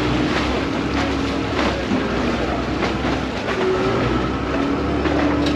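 Vaporetto water bus running under way: a steady low engine hum with a few held tones that shift in pitch, and irregular knocks every second or so.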